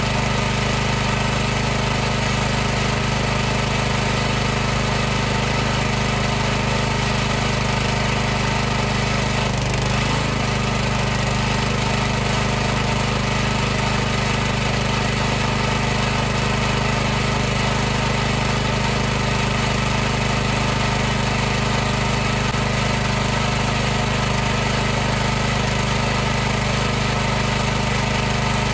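High-pressure washer running steadily: its motor and pump give a constant droning hum over an even hiss. The hum wavers briefly about ten seconds in.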